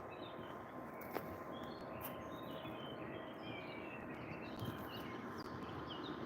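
Several small birds chirping in short repeated calls over a steady outdoor hiss, with a single faint click about a second in.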